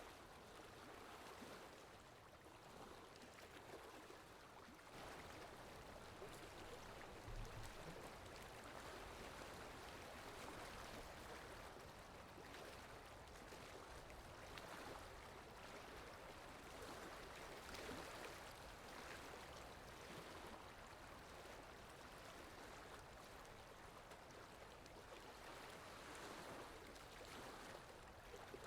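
Faint, steady rush of flowing water, swelling and easing a little, with one soft low bump about seven seconds in.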